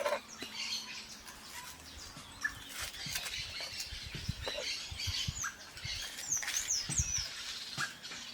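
Small birds chirping with short, quick calls, a cluster of them about six to seven seconds in, over scattered light clicks and knocks.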